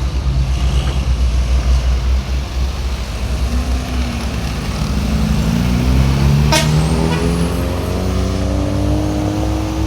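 A heavy truck's engine running over a constant low rumble, its pitch climbing steadily from a few seconds in as it accelerates through the bend. A short sharp snap comes about two-thirds of the way through.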